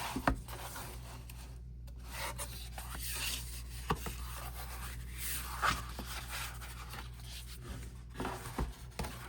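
Cardboard album packaging being handled: soft rubbing and sliding of card and paper, with a few light taps and clicks.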